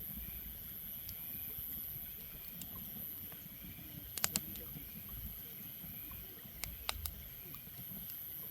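Low rumble of wind on the microphone during a walk, with a few sharp clicks in two short clusters, about four seconds in and again around seven seconds.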